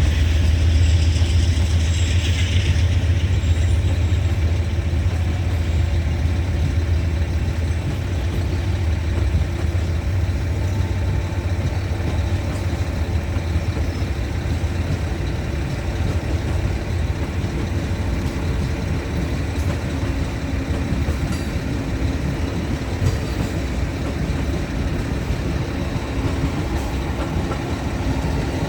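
A train running past with a steady low rumble that eases off slightly over the first several seconds.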